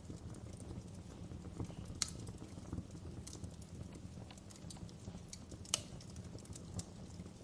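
Wood fire burning in a fireplace: a steady low rumble of the flames with irregular sharp crackles and pops, two louder snaps about two seconds in and near the six-second mark.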